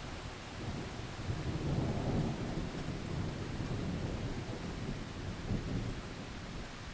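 Thunder rumbling under steady rain, swelling about two seconds in and then slowly easing off.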